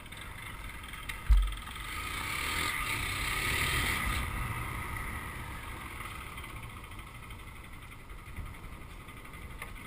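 Honda CG 150 single-cylinder motorcycle running on the move, under a steady hiss from the microphone. There is a brief low thump about a second and a half in, and the sound swells and then falls back between about two and five seconds.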